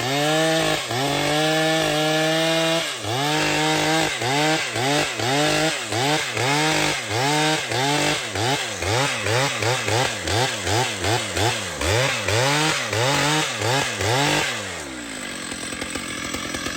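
Two-stroke chainsaw running at high revs, its engine note dipping and recovering in regular pulses that quicken to about two a second, then falling back to idle near the end.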